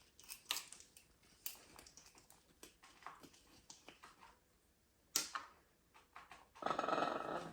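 Blue-and-gold macaw making scattered light clicks and taps, then a harsh rasping sound lasting about a second near the end, just before the owner asks what it sees.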